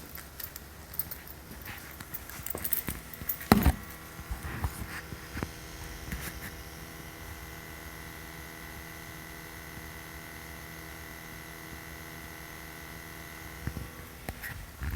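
Steady electrical hum of several even tones from inside a switched-off 2020 Toyota Corolla: something on the car is running hours after shutoff. It starts right after a knock about three and a half seconds in and stops near the end, with handling knocks and rustles before it.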